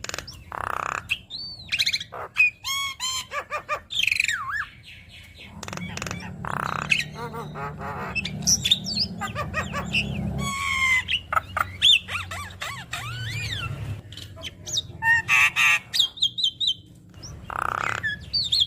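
Javan myna (jalak kebo) singing a rapid, varied song of harsh squawks, whistled glides, warbles and clicks. The song is full of mimicked phrases.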